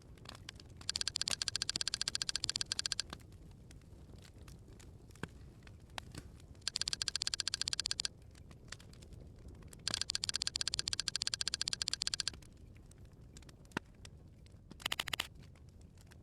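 A rapid rasping train of clicks in four bursts: three of about one and a half to two and a half seconds each and a short one near the end, over a faint background hiss.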